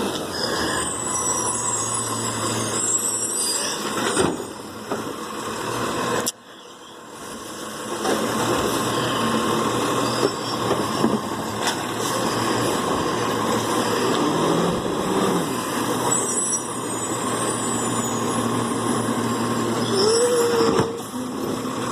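Recycling truck running, its engine and machinery giving a loud, steady noise with a few brief high squeals. The sound drops away suddenly about six seconds in and builds back up over the next couple of seconds.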